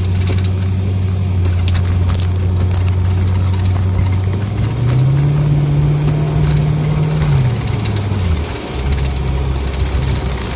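Car engine and road noise heard from inside the cabin while driving; about five seconds in the engine note rises and holds, then drops back near eight seconds.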